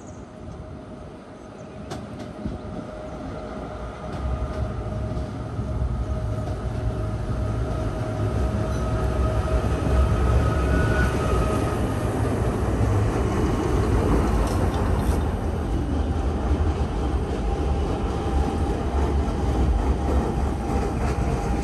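Stadler GTW electric rack railcar of the Montserrat Rack Railway approaching and passing close by. It grows steadily louder over the first several seconds, then holds a steady low rumble with a faint whine.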